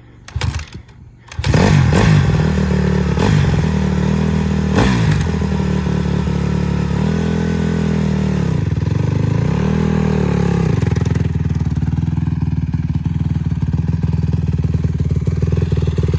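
Honda CRF450R dirt bike's single-cylinder four-stroke engine: a couple of short knocks, then it starts and runs loudly. Its pitch dips and picks up again twice around the middle before it settles back into a steady run.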